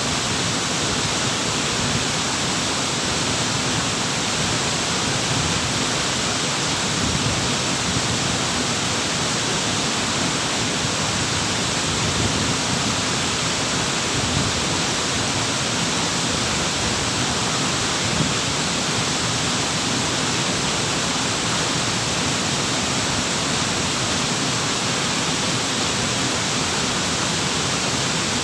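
A waterfall running: a steady, unbroken rush of falling water.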